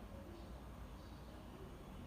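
Faint, steady low background hum with no birdsong.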